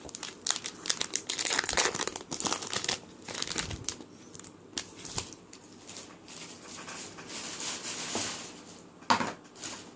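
Foil wrapper of a Pokémon trading card booster pack being torn open and crinkled: dense crackling for the first three seconds, then quieter rustling with scattered clicks and one sharp snap near the end.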